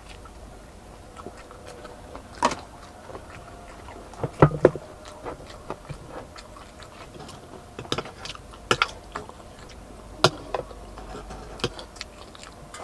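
Close-up chewing and biting of crispy fried chicken, with scattered sharp crunches and mouth clicks; the loudest crunches come in a cluster about four and a half seconds in.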